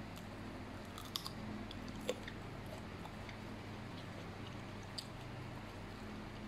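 A person chewing a mouthful of raw red chilli and fried noodles close to the microphone, with a few short sharp clicks about one, two and five seconds in.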